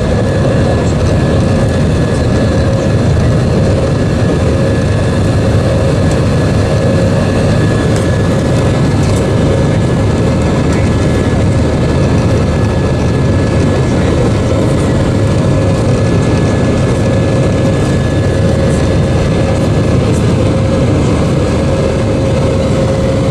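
Steady jet-engine and airflow noise inside the cabin of an Airbus A320-232 with IAE V2500 engines, heard from a seat over the wing. A deep even rumble carries a constant whine, with no change in level.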